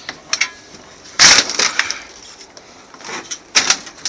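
Sharp knocks and rattling clatter of loose metal parts being handled and knocked in a stripped aircraft cockpit. The loudest clank comes just past a second in, and another group of clatters follows near the end.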